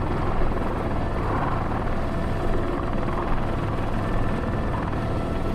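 Airbus H125 (AS350 B3) helicopter's turbine engine and rotor running steadily, heard from inside the cockpit while hovering with a long-line load, with a faint steady whine over the noise.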